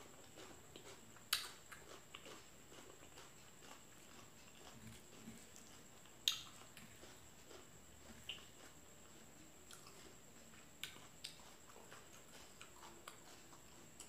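Faint close-up chewing of raw bitter melon, with a few sharp crisp crunches; the loudest come about a second in and about six seconds in.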